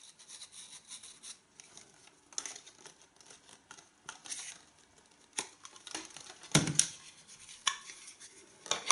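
Small plastic vacuum accessories being handled: light rustling, rubbing and clicking, with a couple of sharper knocks in the second half.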